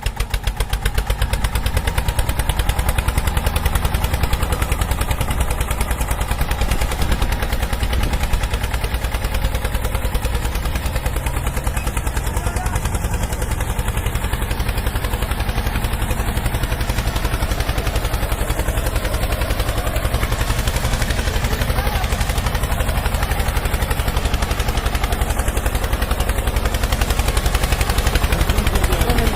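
Small engine of a homemade mini tractor running steadily with a fast, even chugging beat. It picks up in the first second or two, then holds.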